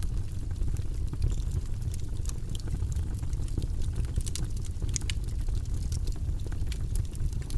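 Wood logs burning in a fireplace: a steady low rumble of the flames under frequent small, sharp crackles and pops.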